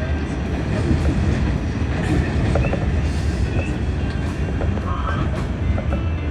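Steady low rumble of a moving vehicle, with faint scattered clicks and short squeaks over it.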